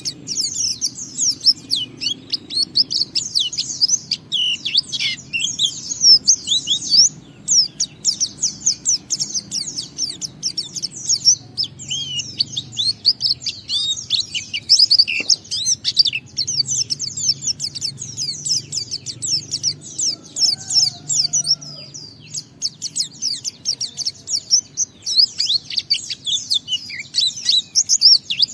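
Pleci (white-eye) singing a long, rapid, continuous twittering song in the ngalas style: high chirps tumbling one after another with only brief pauses.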